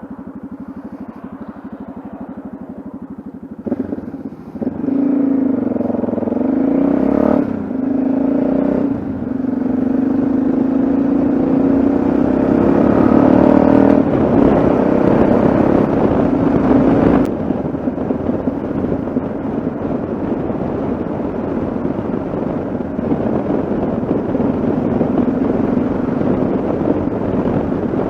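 Yamaha XT660Z Ténéré's single-cylinder engine running at low revs, then, about four seconds in, pulling hard with its note rising in several steps as it goes up through the gears, and then running steadily at speed.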